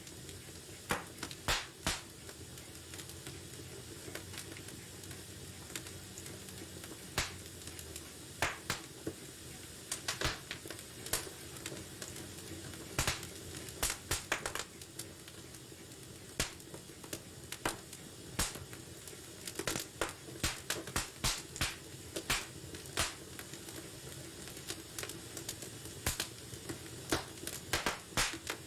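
Wood fire burning in a fireplace, crackling and popping at irregular intervals over a steady low hiss of flames, with a busy cluster of pops in the middle and again near the end.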